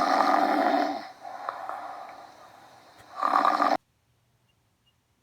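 Redfoot tortoise withdrawn into its shell, giving a raspy, breathy hiss as it forces air out. A loud stretch in the first second, a softer one after it, then a second loud burst that cuts off abruptly a little before 4 s.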